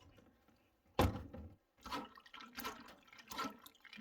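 Water sloshing and splashing as pumpkin seeds are swished by hand in a container of water to rinse them, with a sharp splash about a second in and irregular splashes after.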